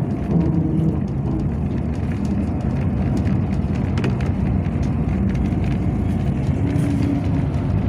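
Yutong ZK6118HGA city bus heard from inside the passenger cabin: its engine runs with a steady low drone, with scattered light clicks and rattles from the body.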